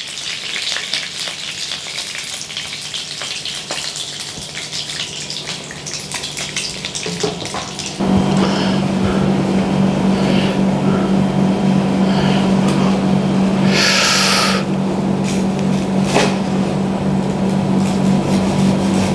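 Panko-breaded chicken cutlets frying in shallow oil in a pan, a dense crackling sizzle. About eight seconds in it gives way to a steady low hum with scattered clicks and one short bright rasp.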